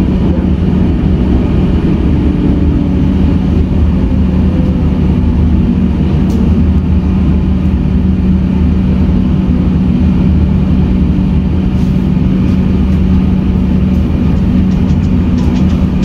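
Comeng electric suburban train running along a station platform, heard from inside the carriage: a steady low rumble with a constant hum, and a few sharp clicks near the end.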